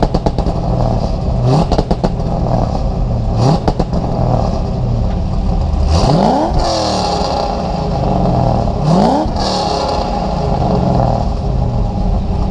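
Corvette C5 Z06's cammed LS6 V8, running through a catless exhaust, revved up several times from idle onto its MSD two-step rev limiter and held there; the highest and longest rev comes about six seconds in, with another about nine seconds in.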